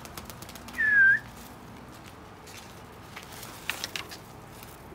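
One short, sharp whistle about a second in, dipping slightly in pitch: a pigeon flyer's whistle to send the flock up. Scattered faint clicks follow.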